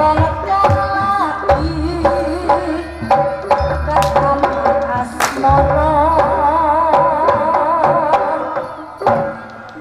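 Javanese traditional ensemble music: a melody with a strong, wavering vibrato over repeated low hand-drum strokes, easing off in loudness near the end.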